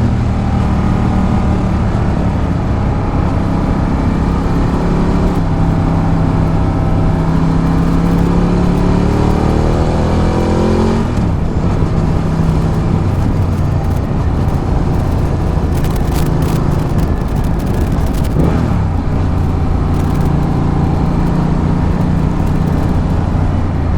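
Ducati Multistrada 1200's L-twin engine heard while riding, with wind rush on the microphone. The engine note rises steadily for several seconds, drops sharply about eleven seconds in, then holds at a steady cruise.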